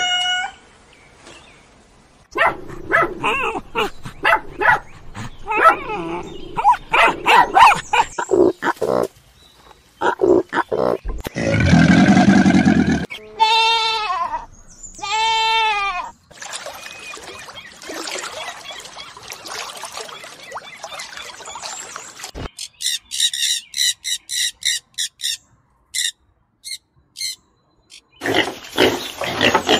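A run of different animal calls. A kitten's short mew opens it, and a kid goat bleats twice about halfway through. A bald eagle gives a rapid series of high, thin piping notes, and pig grunts start near the end.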